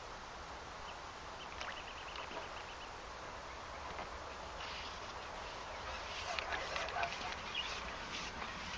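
Small birds chirping over a steady outdoor hiss: a quick run of short high notes about a second and a half in, then a busier spell of chirps in the second half.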